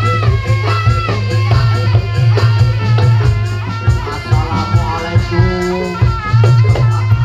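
Loud live barongan music: an ensemble of drums and percussion with a wavering high melody over a steady deep drone.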